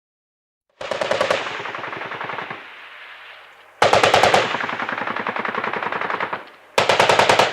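Automatic gunfire sound effect: three bursts of rapid machine-gun fire, the first tailing off, a second about three seconds later, and a third short one near the end.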